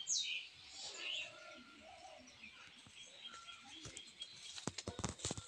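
Birds chirping and calling, with a cluster of sharp clicks near the end.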